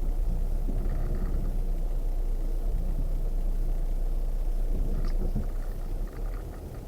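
Off-road vehicle crawling up a hill on a rough trail: a steady low rumble of engine and drivetrain, with a few light rattles and knocks over it. The rumble eases slightly near the end.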